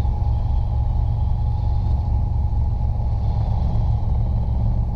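Robinson R22 helicopter heard from inside the cabin: the four-cylinder Lycoming piston engine and the rotors running under power as the aircraft recovers from a practice autorotation. A steady, constant low rumble with a faint whine above it.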